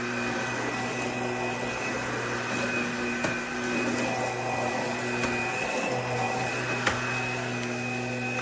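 Bissell PowerClean FurGuard cordless stick vacuum running steadily with a whining motor tone, and two sharp ticks a few seconds apart.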